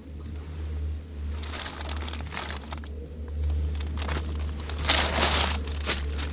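Crinkling and rustling of something being handled, in irregular bursts that are loudest about five seconds in, over a steady low hum.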